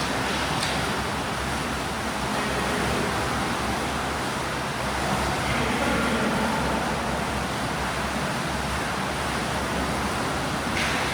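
Swimming pool ambience during breaststroke drills: a steady wash of water and splashing noise, with a couple of faint short clicks near the start and the end.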